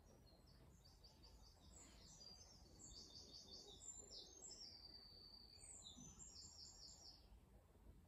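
A songbird singing a faint run of high, quick repeated notes and short trills, over a steady low background rumble.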